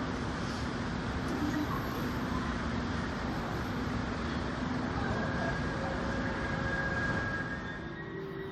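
Korail 7600-class diesel locomotive running, a steady heavy rumble with a thin high whine coming in about halfway through.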